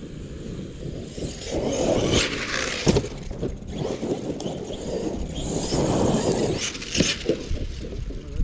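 Traxxas Sledge RC monster truck driving in snow, its tyres churning snow in surges, with a few sharp knocks.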